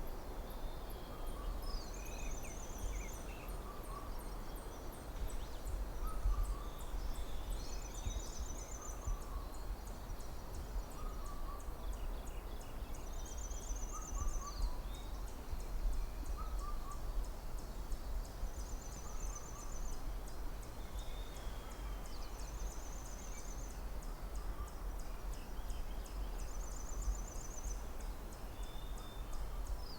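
Forest ambience: birds calling and chirping, with a short high trill repeated about every five seconds, over a steady low wind rumble.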